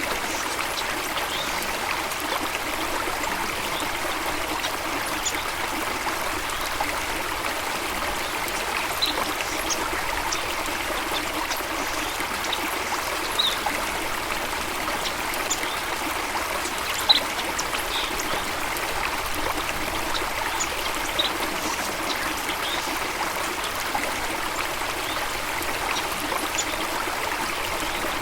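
Water running steadily in a stream or small waterfall, an even rushing and trickling, with songbirds giving short, scattered high chirps over it.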